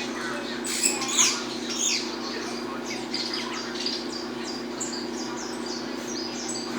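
Peruvian saffron finch singing: a fast run of short, high, downward-slurred chirps in the crisp snapping style breeders call 'estalando'. A steady low hum runs beneath.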